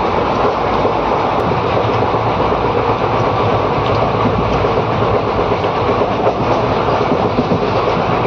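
Passenger train coach running along the track, heard from inside the carriage: a steady, loud rumble and rattle.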